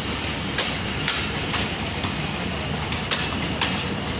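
Pakistan Railways passenger coaches rolling slowly past at close range: a steady rumble with the clickety-clack of the wheels going over rail joints, the clicks coming in pairs about half a second apart.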